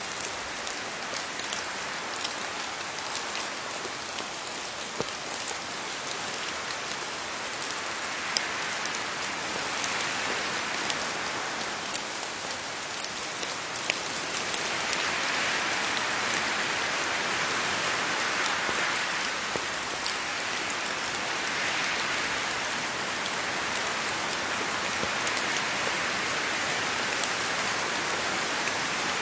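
Steady rain falling on leaves, an even hiss dotted with the sharper ticks of single drops, growing a little heavier about halfway through.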